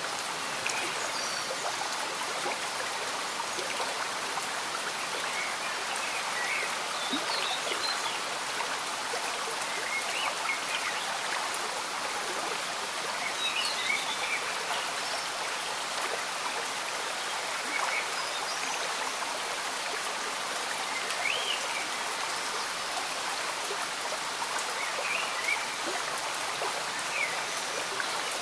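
Slow-moving stream bubbling and trickling steadily, with gentle rain falling.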